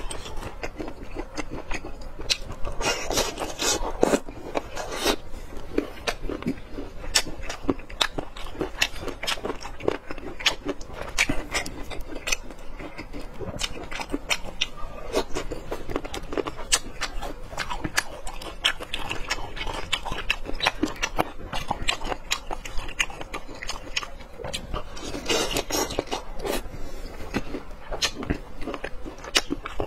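Close-miked chewing of boneless chicken feet in sour-spicy sauce: a steady run of quick, irregular mouth clicks and smacks, with longer noisy stretches about three seconds in and again near the end.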